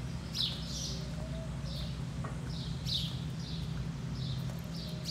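A small bird chirping repeatedly in short falling notes, about two a second, over a steady low hum.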